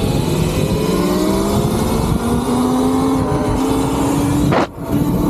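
Electric dirt bike motor whining and rising steadily in pitch as the bike accelerates, over a rushing noise. The whine cuts out briefly near the end, then returns at a steady higher pitch.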